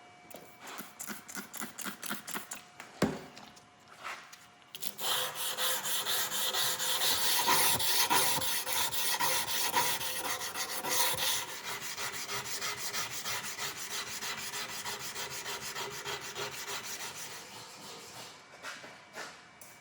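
Steel knife blade rubbed back and forth by hand against an abrasive, in quick rasping strokes. A sharp knock comes about three seconds in. Then the strokes run faster and closer together and grow quieter toward the end.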